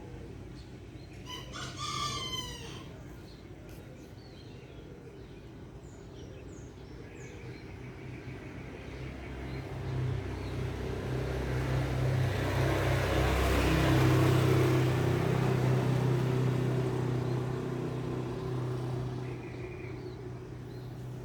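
A rooster crows once, briefly, about a second in. Later a vehicle passes, growing louder to a peak about midway and then fading.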